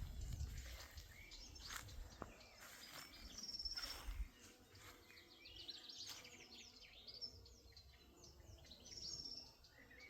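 Several small birds chirping and trilling, with many short calls overlapping. A faint low rumble runs under them in the first few seconds.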